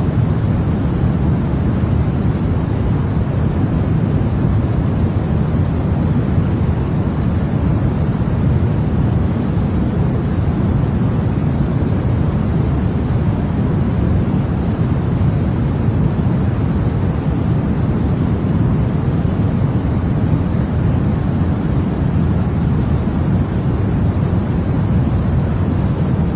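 Continuous sleep noise for babies: a steady, even rushing sound, deep and rumbling rather than hissy, that never changes.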